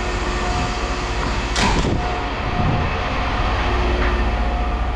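A machine running with a steady low drone and a constant hum. A short hissing, scraping burst comes about a second and a half in, and a smaller one about a second later.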